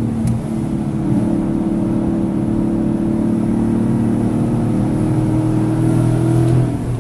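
Car engine running hard under load, its pitch climbing slowly, then falling away abruptly near the end. The engine has misfires in cylinders 1, 3 and 4, enough to set the check engine light blinking.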